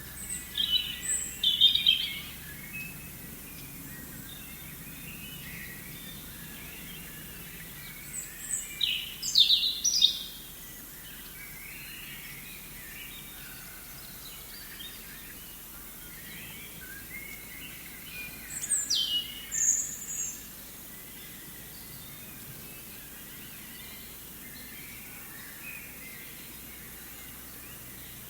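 Forest ambience: a steady soft hiss with faint distant birds chirping, and a nearer bird singing three short phrases of high, sharply falling whistled notes, near the start, about 8 s in and about 18 s in.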